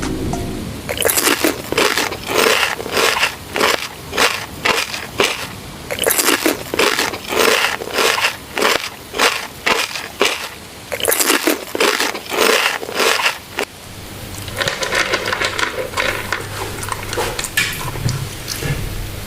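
Crunchy food being bitten and chewed: loud crunches about two a second, in three runs with short pauses between. Near the end the crunching turns softer and crackly over a low hum.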